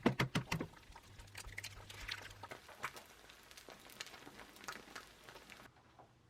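Scattered small clicks and taps, with a quick cluster of sharper ones at the start.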